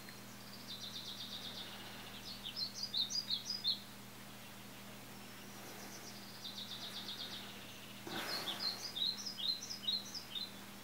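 A songbird singing two phrases, each a fast trill followed by a run of bright chirps, over a faint steady hum.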